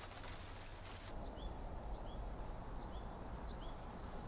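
A small bird calling four times, each call a quick falling high note followed by a lower note, repeated a little under a second apart. Beneath it runs a steady low outdoor rumble, with faint scattered ticks in the first second.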